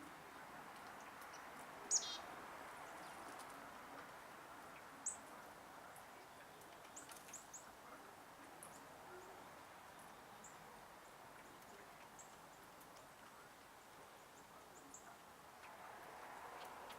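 Wild birds calling around a backyard feeder: scattered short, high chirps and chips, the loudest a sharp falling chirp about two seconds in, over a faint steady background hiss.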